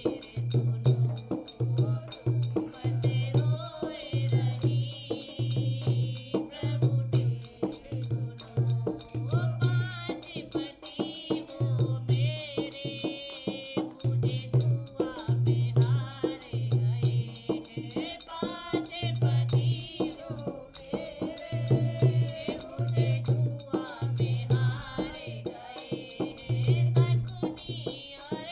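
Hindi devotional bhajan: a voice singing over a steady drum beat of about two strokes a second and continuous jingling percussion.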